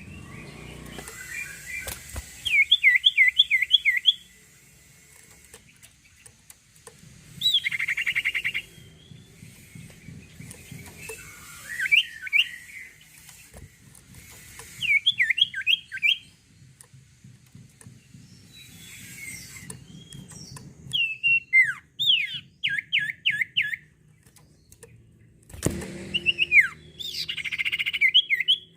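A sirtu (cage songbird) singing hard: short phrases of quick repeated down-slurred whistled notes, about five or six to a phrase, every few seconds, with a denser rattling phrase about a third of the way in and again near the end.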